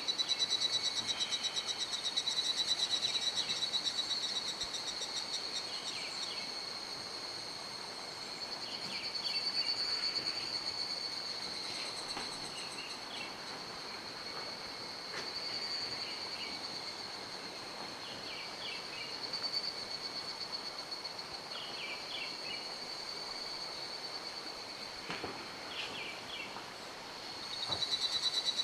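An insect's high, fast-pulsing trill, loud at the start, fading and swelling through the middle, and loud again near the end, over the steady rush of a mountain stream. Short high chirps come and go throughout.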